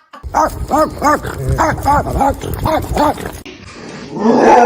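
A dog barking over and over, short pitched barks about three a second, stopping about three and a half seconds in. Near the end comes a louder, rougher sound.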